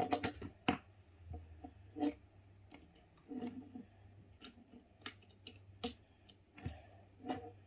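LEGO bricks clicking and clattering as pieces are handled and pressed together, a series of short irregular clicks.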